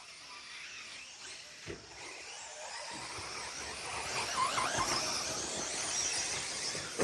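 Radio-controlled 4x4 short course trucks racing, their motors whining in shifting pitches as they go around the track, growing louder about four seconds in as they come closer.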